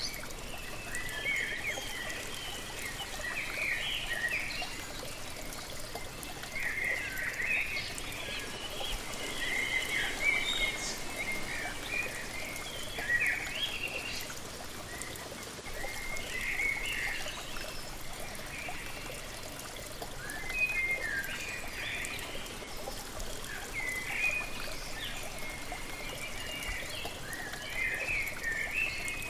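Steady rush of a waterfall with birds singing over it in short, repeated twittering phrases every few seconds.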